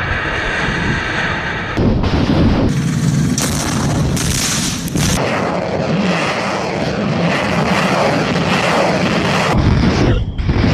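Loud roar and rumble of missile launches, heard as several clips cut together abruptly. The first part carries a steady turbine-like whine over the roar.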